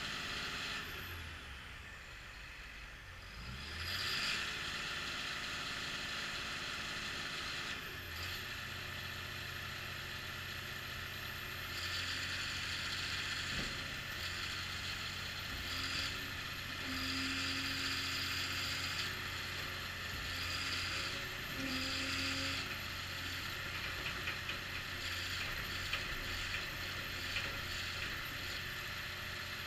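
Caterpillar D6K2 track-type tractor's diesel engine running steadily, with mechanical clatter. The sound eases off briefly and picks up again about four seconds in. A short, higher whine comes and goes twice in the second half.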